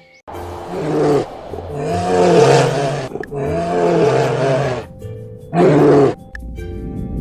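A large animal calling four times in a row: long, loud, roaring calls that each rise and fall in pitch, the last one shorter.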